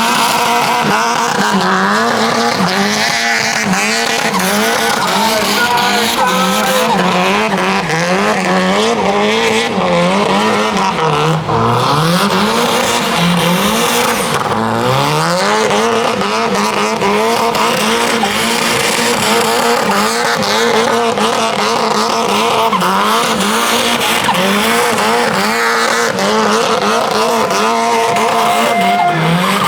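Drift car engine held at high revs, its pitch swinging up and down with the throttle and dropping sharply twice, over continuous tyre squeal as the car slides.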